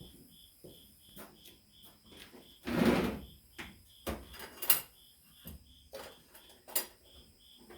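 Hand tools and metal parts being handled on a Ford 2N tractor: a scraping rustle about three seconds in, then several sharp metal clicks and clinks. A steady high chirp repeats about three times a second in the background.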